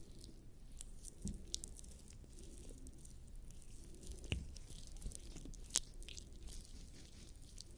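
Lubricating jelly squelching between skin and the microphone's ears in an ASMR massage: a continuous wet, sticky crackling with scattered sharper clicks, the loudest about a second in, about four seconds in and near six seconds in.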